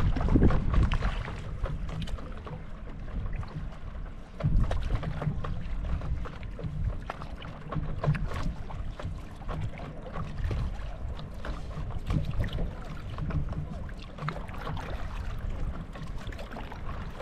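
Wind buffeting the microphone in gusts, over small splashes and lapping of lake water.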